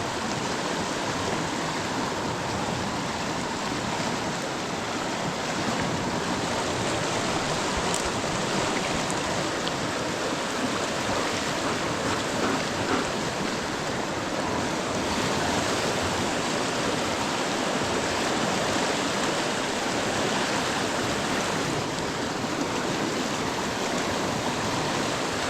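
A river rushing steadily, running high after a night of heavy rain.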